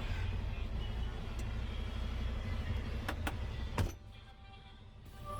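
Gravel truck's engine running steadily, heard from inside the cab, with three sharp clicks a little after three seconds in. About four seconds in the engine sound drops suddenly to a much quieter hum.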